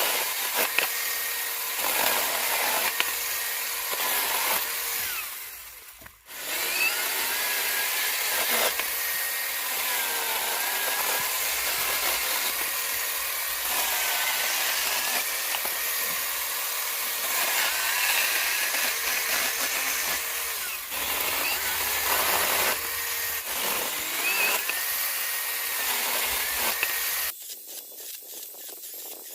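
A 4-inch cordless mini chainsaw runs and cuts through green wood, its motor pitch sagging and recovering as the chain bites. The saw briefly stops about six seconds in, then runs again until shortly before the end.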